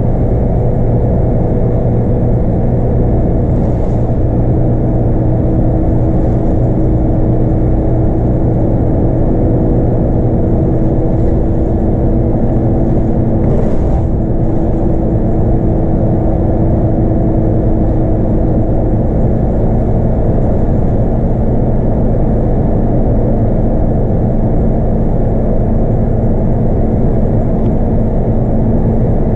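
Scania K230UB bus's five-cylinder 8.9-litre diesel engine running steadily under way, with a constant low drone and road noise.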